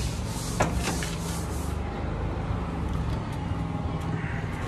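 Car engine idling with a steady low hum, with a few light knocks in the first second.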